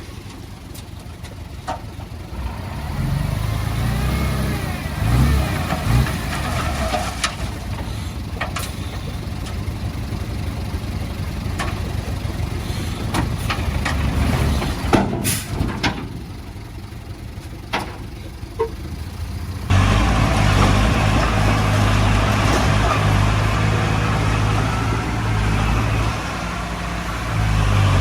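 Diesel engine of heavy earthmoving machinery running, with scattered clanks and knocks. About two-thirds of the way through it gets suddenly louder and stays steady.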